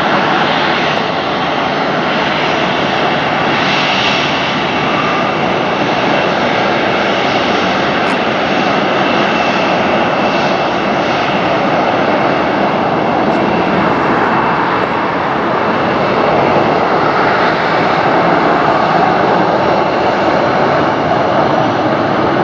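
Jet airliner's engines at takeoff power: a loud, steady rush of jet noise with a faint high whine, swelling slightly past the middle.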